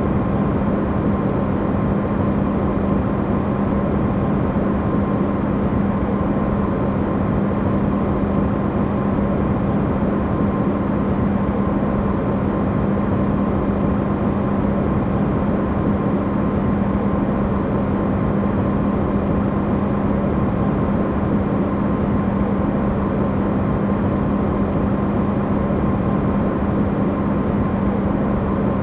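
Amplified recording of an Electrolux refrigerator running: a steady, even hum with a strong low drone and a faint higher tone, unchanging throughout.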